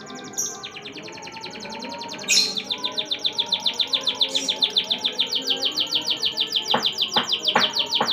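Domestic canary singing a long, fast trill of evenly repeated high notes, about ten a second, which grows loud about two seconds in.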